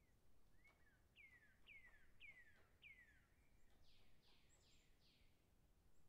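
Faint bird song: four clear whistled notes, each sliding down in pitch, about half a second apart, then four higher, hoarser notes in quicker succession. A faint single tap comes just before the song.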